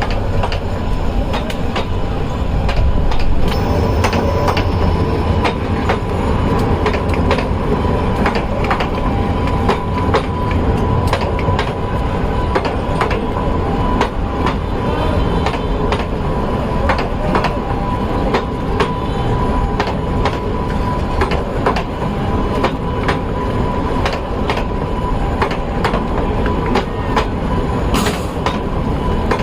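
Train running along the track: a steady rumble with repeated sharp clicks of the wheels over the rails.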